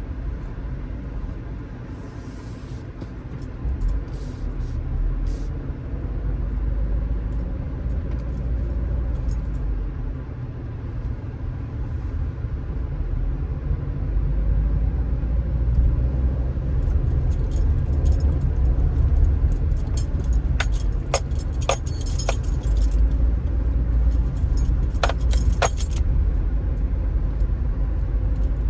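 Strong wind buffeting the phone's microphone in a deep, gusting rumble over ocean waves breaking on the shore, louder in the second half. Bursts of sharp crackling come in clusters in the second half.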